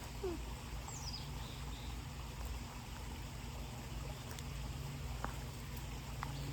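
Quiet backyard ambience: a steady low hum with a faint bird chirp sliding down in pitch about a second in, and a few faint ticks.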